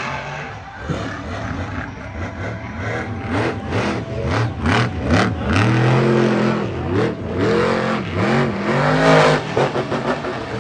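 Monster truck engine revving hard, its pitch climbing and dropping again and again, with sharp knocks and bangs in between, the loudest near the end.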